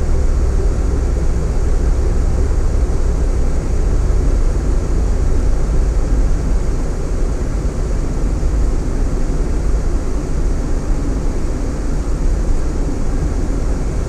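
Steady road and engine rumble inside a moving vehicle's cabin, heavy in the low end and unbroken.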